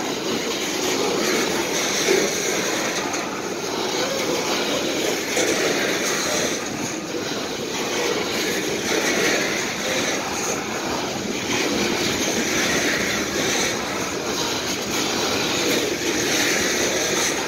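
Freight train of coal hopper cars rolling past on the rails: a steady rumble and rush of steel wheels on the track.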